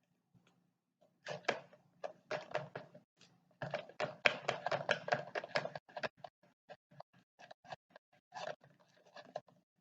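Plastic parts of a toy rocket launcher being handled: a rapid, irregular series of light taps and clicks, densest in the middle and thinning toward the end.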